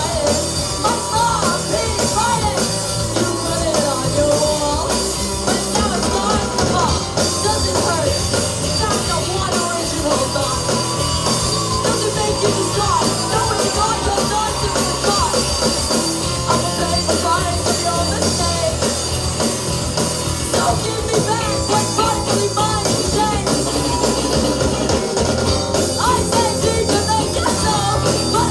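A live rock band playing a song: electric guitar, bass and drum kit, with a singer's voice through the PA.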